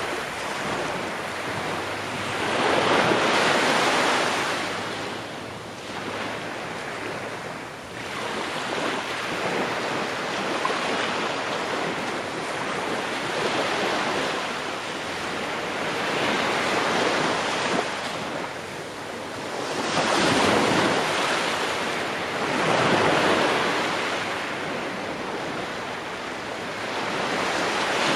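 Ocean waves breaking and washing on a shore, a continuous surf hiss that swells and ebbs every few seconds, with several louder surges.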